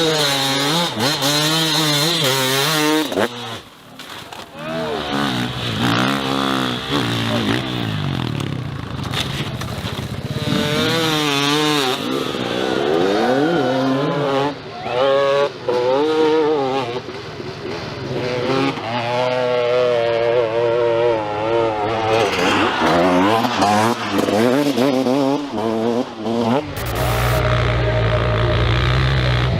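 Dirt bike engines revving hard, their pitch rising and falling again and again with the throttle. Near the end a deeper, steadier drone takes over.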